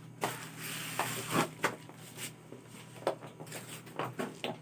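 A string of irregular light knocks, taps and rustles, like things being handled and set down, over a faint steady low hum.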